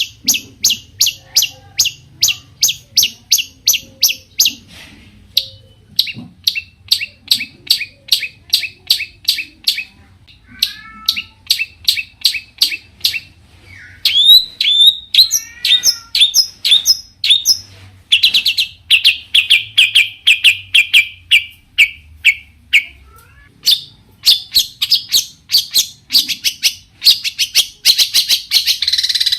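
Long-tailed shrike (cendet) singing a varied song of fast, sharp repeated chirps, about four or five a second, in runs broken by short pauses. The note type keeps changing: sliding notes midway, then a run that drops slightly in pitch, and a dense rapid trill near the end.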